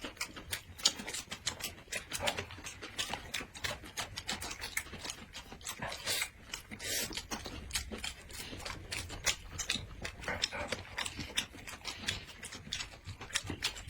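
Close-miked eating: chewing and crunching food, a dense run of sharp, crisp clicks and crackles.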